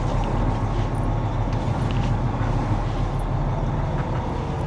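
Semi truck's diesel engine running steadily at low revs while the rig is backed into a loading spot.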